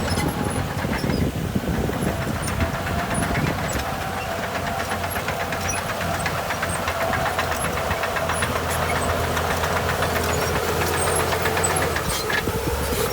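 Heavy diesel engine of earthmoving machinery running steadily, with a faint wavering whine above it.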